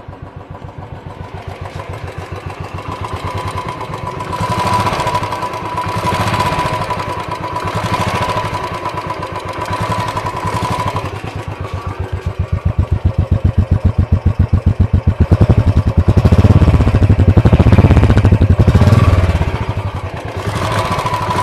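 Royal Enfield Bullet's single-cylinder engine running through its stock silencer, giving a steady, evenly spaced exhaust beat that is revved up several times. The biggest rev comes about three-quarters of the way through, then it drops back toward idle.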